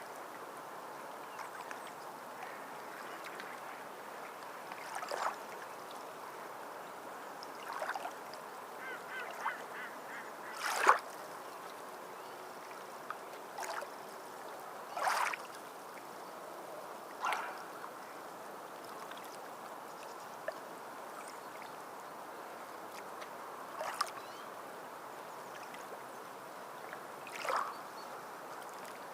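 Waterfowl giving short calls every few seconds, the loudest about eleven seconds in, over a steady wash of water.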